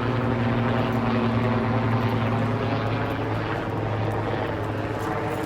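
A steady, unbroken low mechanical drone with a constant hum, like a motor or engine running.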